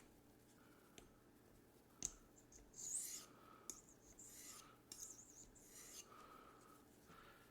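A D2 steel knife blade stroked along a white sharpening stone at a fixed angle: faint repeated scraping swishes about a second apart, with a short click about two seconds in.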